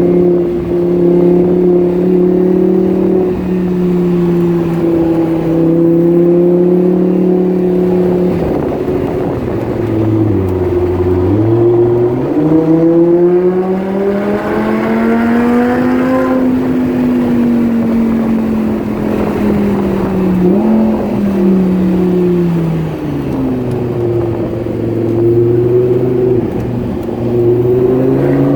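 Lamborghini Huracan's V10 engine under way. It holds a steady pitch for several seconds and drops low about ten seconds in. It then climbs steadily for several seconds to a peak, eases back down, and rises again near the end.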